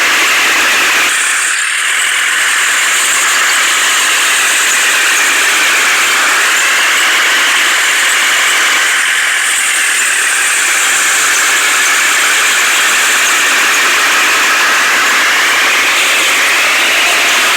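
Heavy machinery engine running loud and steady, with a whine that slowly rises and falls in pitch every few seconds.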